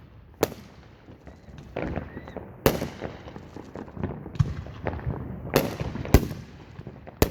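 Aerial fireworks exploding: about five sharp bangs spaced a second or more apart, with smaller pops and crackles between them.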